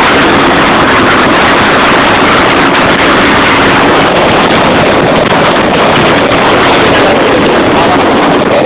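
Loud, steady running noise of a moving vehicle, with wind buffeting the microphone.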